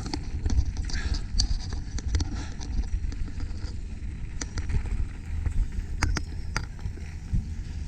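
Mountain bike rolling fast down a trail, heard from a mount on the bike or rider: a steady low rumble of wind on the microphone, with frequent sharp clicks and rattles from the bike over rough ground.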